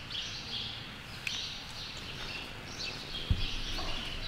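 Small birds chirping in short repeated phrases against a low background hum, with a single soft low thud about three seconds in.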